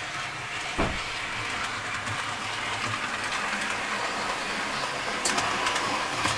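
Bachmann Class 66 model locomotive hauling a CMX track-cleaning car around a model railway layout, giving a steady running noise of wheels on rail. There is a brief low thump about a second in and a few light clicks near the end.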